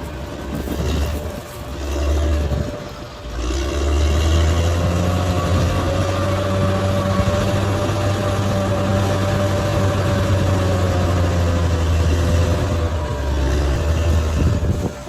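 Large bulldozer's diesel engine running, a low drone with a thin steady whine above it. The sound dips briefly twice in the first few seconds, then holds steady and loud.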